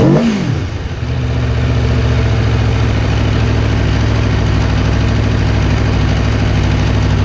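Motorcycle engine falling back from a quick rev right at the start, then idling steadily.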